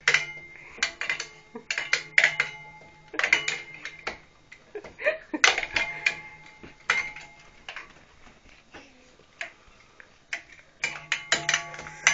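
A toy being banged and rattled: irregular clusters of knocks and clatters, each with a brief ringing tone, and a low steady hum under the first two seconds and again near the end.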